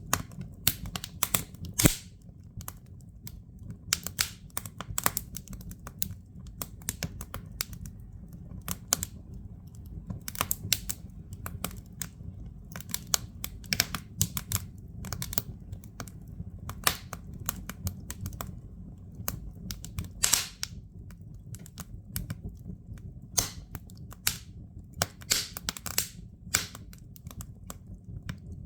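Firewood crackling in a fireplace: irregular sharp pops and snaps over a steady low rumble from the fire.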